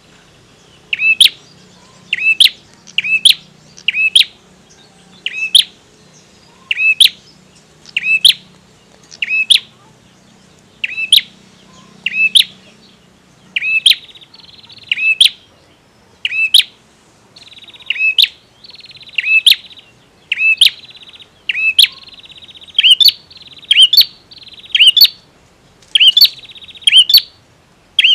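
Male prenjak (a prinia) calling a long series of sharp, loud chirps, about one or two a second. From about halfway on, a buzzy trill runs between the notes.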